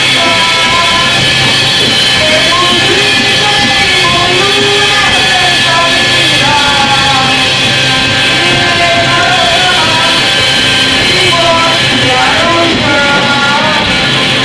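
Loud, dense noise music: an unbroken wall of distorted sound with steady held tones underneath and wavering, warbling pitched lines sliding over the top.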